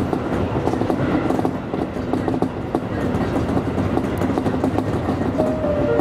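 Tobu Isesaki Line electric train running along the track: a steady rumble of wheels on rail with scattered clicks.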